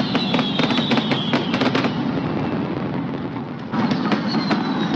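Fireworks crackling: rapid sharp pops, densest in the first two seconds. A thin high whistle slides down in pitch near the start and again near the end.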